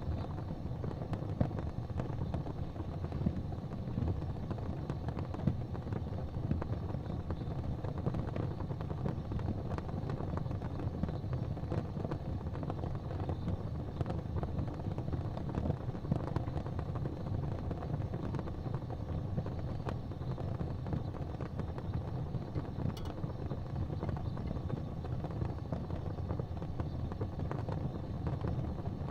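Fire burning in a fireplace: a steady low rumble with frequent small crackles and pops throughout.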